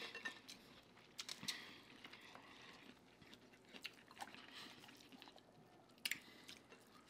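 Faint close-up chewing and wet mouth sounds of people eating crab meat and fried seafood, with scattered small clicks and crackles, the sharpest near the end.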